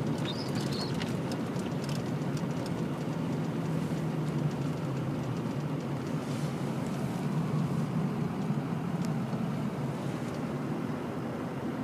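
Steady running noise of a vehicle driving on snowy roads, heard from inside the cabin: a constant low engine hum under an even road and tyre noise.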